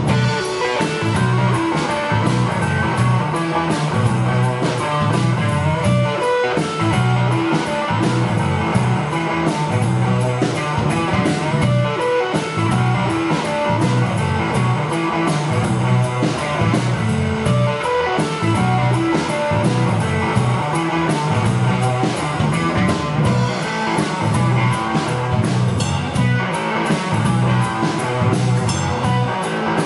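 A live rock band playing an instrumental passage, with electric guitar prominent over bass and drums.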